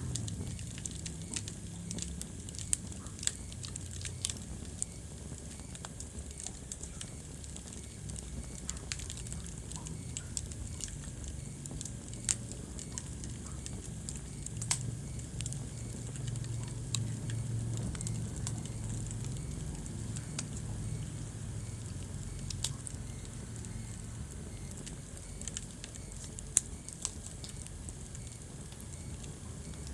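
Wood fire burning in a fireplace, crackling with irregular sharp pops, a few louder than the rest, over a steady low rumble.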